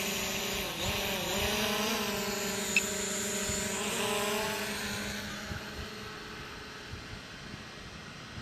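Camera drone's propellers whining in flight, the pitch dipping and rising about a second in, then steady before fading over the last few seconds as the drone flies away.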